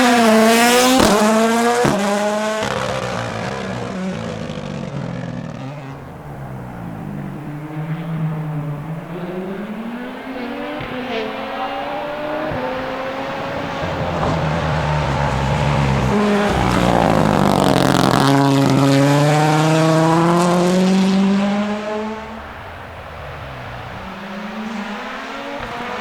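Ford Puma Rally1's 1.6-litre turbocharged four-cylinder engine driven hard, its pitch climbing and falling repeatedly through gear changes. A loud stretch comes near three-quarters of the way in, then the sound drops away suddenly.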